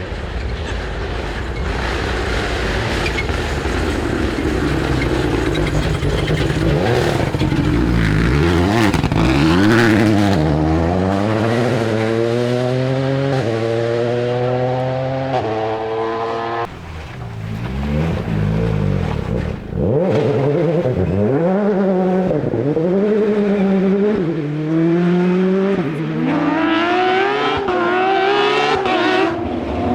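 Rally car engines running hard, revving up through the gears, with the pitch climbing and dropping at each upshift, then falling away and rising again as the cars lift off and accelerate. The sound breaks off abruptly twice, about halfway through and a few seconds later, as one pass gives way to another.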